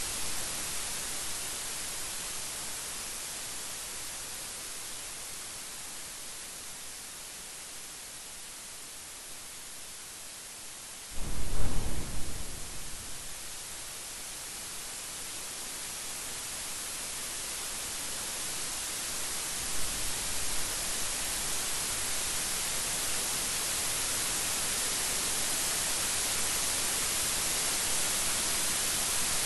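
Steady heavy rain hiss, swelling gradually over the second half, with a sudden loud clap of thunder about eleven seconds in that rumbles for a second or two, and a fainter rumble of thunder about twenty seconds in.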